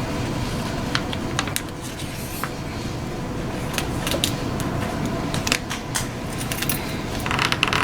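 A sheet of printer paper being handled and folded in half: scattered crinkles and light taps, then a longer rustling swish near the end as the fold is pressed. A steady low rumble runs underneath.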